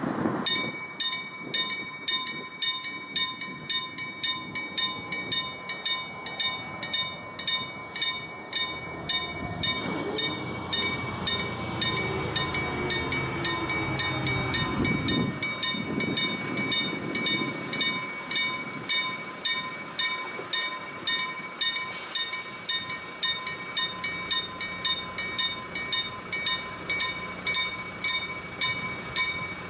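Level crossing warning bell starts about half a second in and rings on in a steady, even rhythm, about one and a half strokes a second. Underneath, a freight train hauled by an Sr1 electric locomotive approaches and passes, with pitched sounds from about ten to eighteen seconds in that fall in pitch as it goes by.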